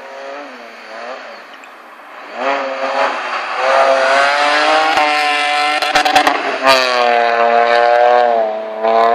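BMW E30 335i rally car's engine revving hard under acceleration, its note climbing and dropping back at gear changes as the car comes closer and gets loud. A few sharp cracks sound around six seconds in.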